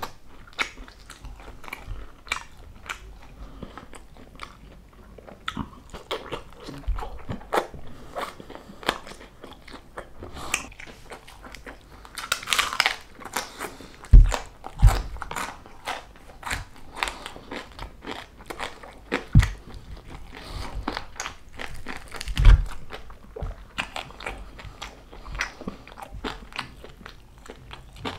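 Close-miked chewing and crunching of crispy pata, the deep-fried pork leg's crackling skin, with crackling as the crisp skin and meat are torn apart by hand. A few loud dull thumps land about halfway through and later.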